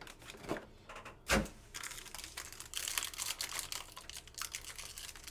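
Foil trading-card pack wrappers crinkling and tearing as packs are opened by hand, with cards being handled; a sharp click about a second in, then a run of fine crackling.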